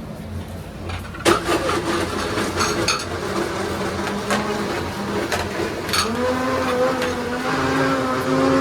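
Train passing at close range, with irregular metallic clanking and rattling, then a steady droning tone from about six seconds in.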